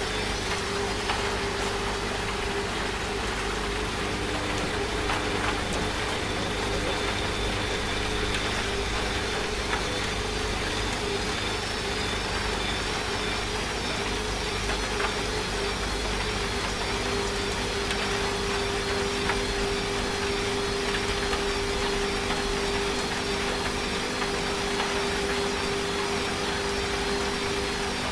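Washing machine running steadily, its motor giving a low hum and a steady tone, mixed with the even hiss of rain.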